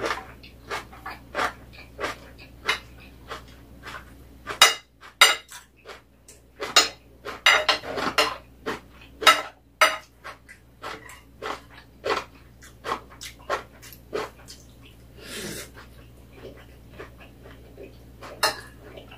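Close-miked eating sounds: a person chewing and lip-smacking, with a metal spoon and fork clinking and scraping on a ceramic plate. The clicks and smacks come thick and loud about five to ten seconds in.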